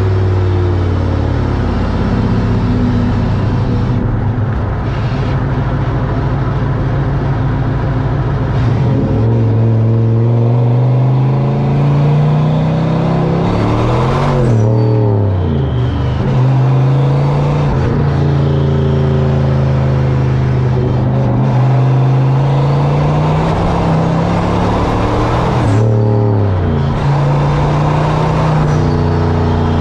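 Blow-through turbocharged 302 V8 accelerating under load on a test drive, with its distributor's mechanical advance cut to 26 degrees and a homemade boost retard fitted. Engine pitch climbs steadily and drops sharply at two upshifts, about a third of the way in and near the end, over steady road and wind noise.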